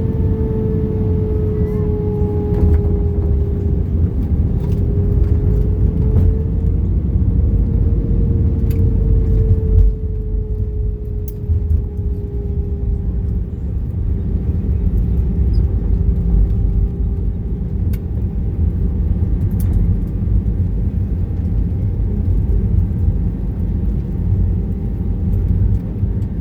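Airbus A320 cabin noise: a steady low rumble of airframe and engines, with an engine tone sliding slowly lower in pitch and light rattles. About ten seconds in, the higher part of the noise falls away.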